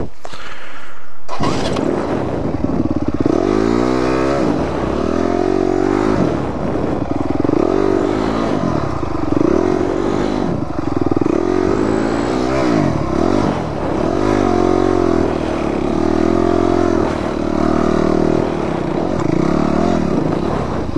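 Dirt bike engine running under riding load, its pitch rising and falling again and again as the throttle is opened and rolled off.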